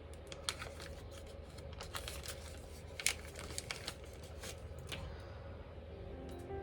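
Handling noise: scattered light clicks and rustling at the workbench, with music fading in near the end.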